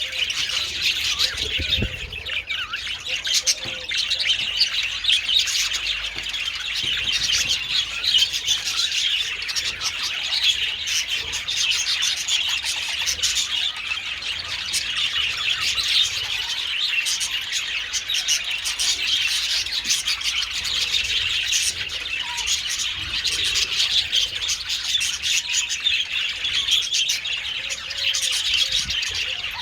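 A colony of budgerigars chattering and chirping, many birds at once in a dense, unbroken warble with occasional squawks.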